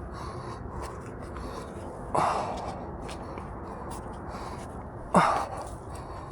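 A trail runner breathing hard: two loud, gasping breaths about three seconds apart, each fading over half a second, over a steady background hiss.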